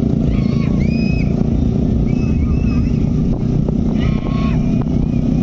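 Steady, loud rumble of superbike engines running, with short high whistles and whoops from onlookers breaking in several times.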